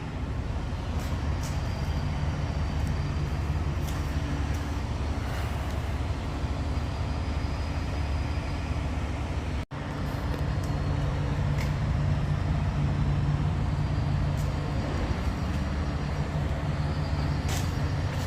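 Semi-truck's diesel engine idling steadily, with a low, even hum.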